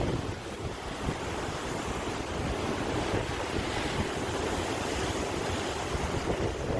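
Ocean surf: a continuous wash of waves, with a surge of a breaking wave near the end.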